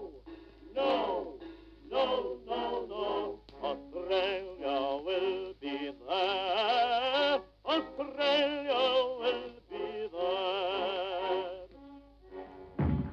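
A trained solo voice singing with strong vibrato, phrase after phrase with short breaths between, in an operatic style. A low thud comes in near the end.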